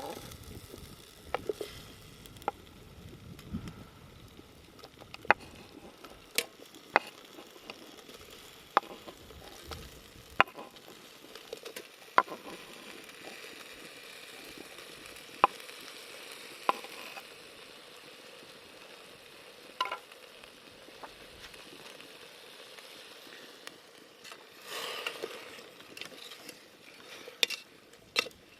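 Chicken and vegetables frying in a pot over a campfire: a steady faint sizzle broken by sharp pops every second or two, with a short louder stretch of stirring near the end.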